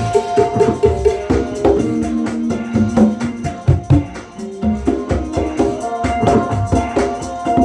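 Percussion music: fast shaken and struck hand percussion, rattle-like, over a melodic line of held notes that change pitch every second or so.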